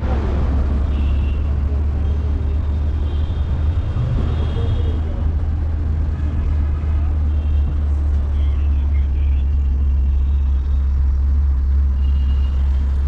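Road noise heard from inside a moving taxi: a steady low rumble, with short horn beeps from the surrounding traffic several times.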